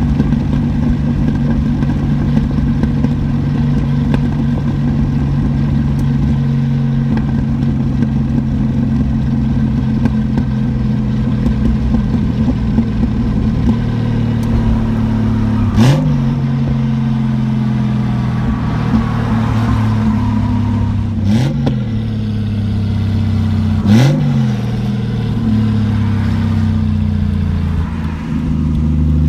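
Turbocharged 7M-GTE inline-six of an MK3 Toyota Supra running steadily at cruise. Three times in the second half a sharp click comes with a quick jump in engine pitch, and near the end the engine note drops.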